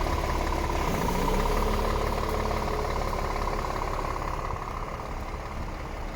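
Scania R450 truck's 13-litre inline-six diesel idling steadily, with a tone near the middle of the range that fades out partway through.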